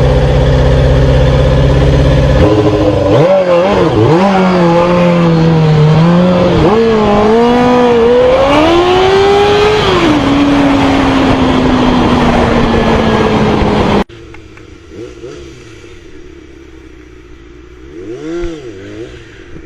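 Motorcycle engines running and revving, loud and close: the pitch climbs and dips repeatedly, then slides down steadily as the throttle eases off. About 14 s in the sound cuts abruptly to a quieter stretch, and a few more quick revs rise and fall near the end.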